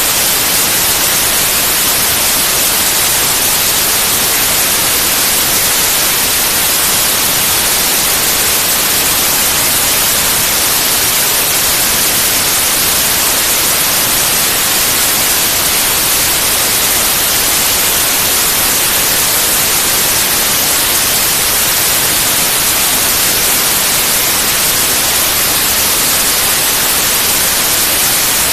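Steady white noise: an even, unchanging hiss across all pitches, with no breaks.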